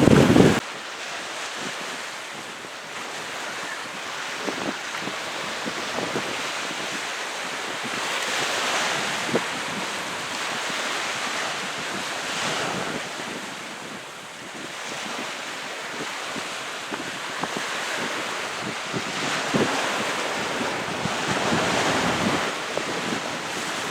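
Wind-driven waves washing onto the shore of a salt lake, surging and easing every few seconds, with gusting wind over the microphone. There is a loud low rumble of wind on the microphone right at the start.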